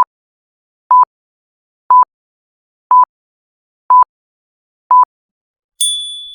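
Electronic countdown-timer beeps, one short identical beep each second, six in a row. A bright chime rings out near the end and fades, marking time up.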